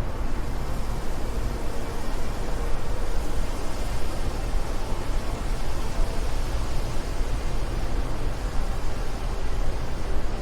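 Steady rushing wind, an even hiss with a heavy low rumble underneath and no breaks.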